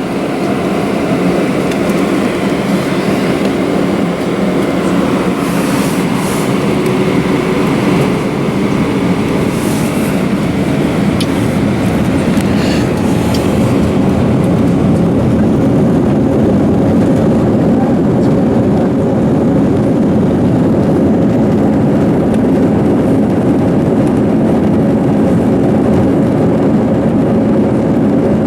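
Airbus A320 cabin noise while rolling on the ground: steady jet engine noise with the rumble and rattle of the wheels over the pavement, and a few sharp clicks or knocks in the first half. It grows a little louder about halfway.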